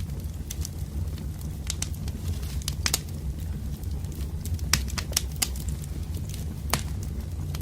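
Wood fire crackling, with irregular sharp pops and snaps over a low, steady rumble of burning.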